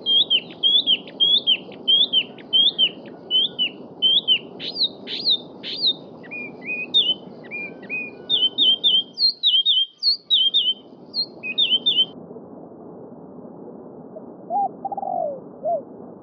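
A small songbird sings a long run of quick, high, repeated chirps, each a sharp sweep in pitch, speeding up partway through and stopping about twelve seconds in. Under it a stream babbles steadily, cutting out briefly just before ten seconds. A second bird gives a few short, lower calls near the end.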